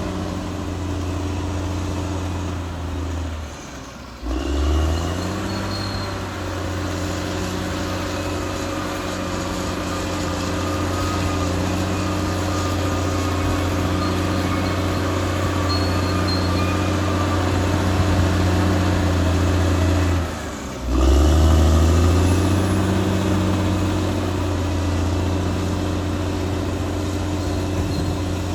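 Caterpillar D6R XL bulldozer's diesel engine running steadily under work. Twice, about four seconds in and again near twenty seconds, the engine sound drops away briefly and then picks back up with rising pitch.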